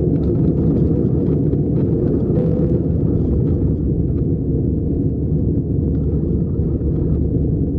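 Steady low rumble in the cabin of an Airbus A319-111 with its CFM56 engines at idle before takeoff, with faint light rattles of cabin fittings.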